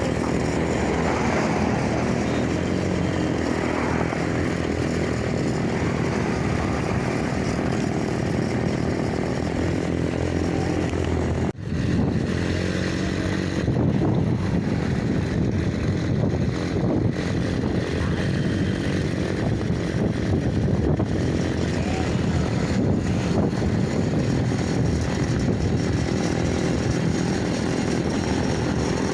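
Small engine of a homemade mini bike running steadily under way, with one short break in the sound about halfway through.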